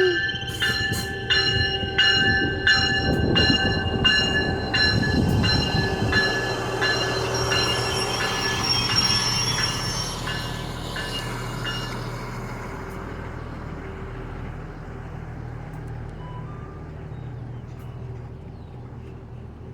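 A train rolling past, its wheels clacking over rail joints about twice a second with a high-pitched squeal over them. Both fade away in the second half as the train recedes.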